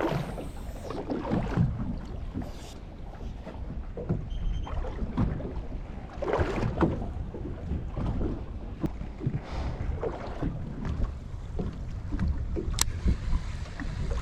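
Water slapping and lapping against the hull of a small fishing boat, in uneven surges, with wind buffeting the microphone. A brief faint electronic beep comes about four and a half seconds in.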